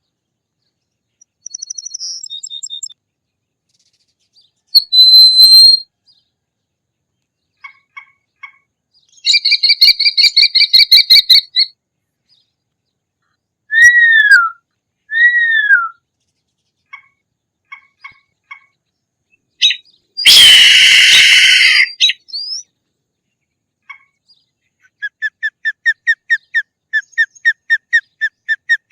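A series of hawk calls with pauses between them: a high whistled note, a rapid run of repeated sharp notes, two short down-slurred calls, a loud harsh screech lasting about two seconds, and near the end another rapid run of notes that grows louder.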